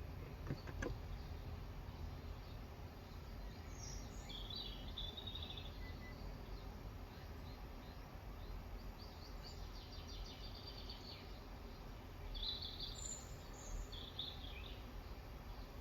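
Birds chirping and trilling in short high phrases several times over a steady low background rumble, with a couple of soft clicks near the start.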